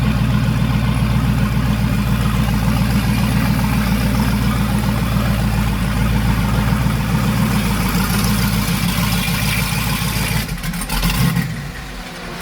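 Twin-turbo 5.3-litre V8 in a Chevrolet Silverado running steadily, then easing off about eleven seconds in. The owner says the engine is still running rich.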